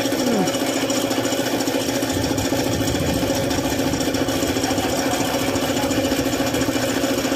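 Suzuki F6A three-cylinder engine running steadily at idle, with a fast, even pulsing.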